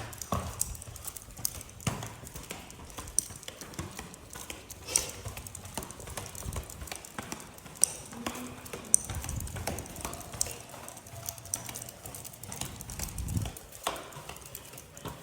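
Irregular light clicks and taps, several a second, with a few sharper clicks and some low thuds.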